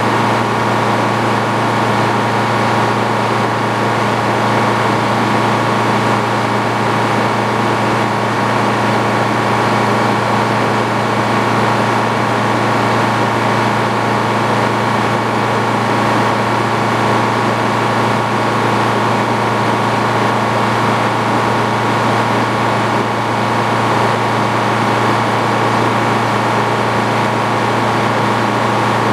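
An engine running at a steady, unchanging speed with a constant hum, as from the power unit driving an antique Frick sawmill.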